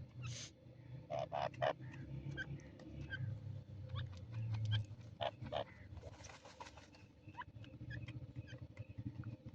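Partridge calling in short, sharp notes: a quick cluster about a second in and a few more around the middle, over a steady low hum.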